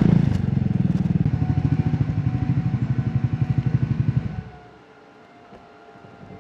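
Triumph Scrambler 400X's single-cylinder engine running at low revs with an even exhaust pulse, then cutting off abruptly about four seconds in, leaving only a faint steady hum.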